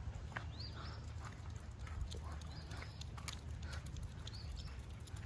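Faint outdoor ambience: small birds chirping, a short high call every second or two, over a low rumble of breeze on the microphone, with scattered light clicks.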